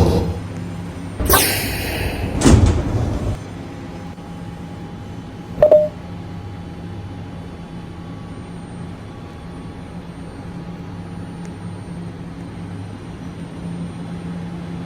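New York City subway train at a station platform: two loud hissing bursts about a second apart near the start, then a steady low hum, broken once by a single sharp click about six seconds in.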